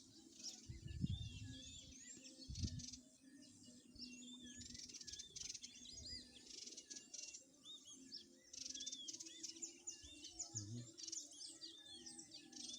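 A faint chorus of many small birds chirping and trilling together, with short repeated arching notes over dense twittering. Two brief low bumps come about one and two and a half seconds in.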